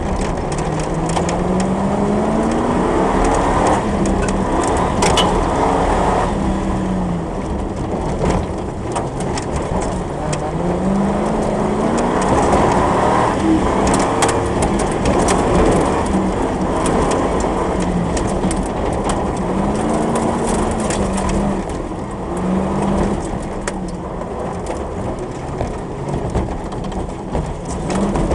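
Competition off-road 4x4's engine heard from inside the cab, revving up and easing off over and over as it is driven hard over rough ground. Frequent knocks and rattles on top.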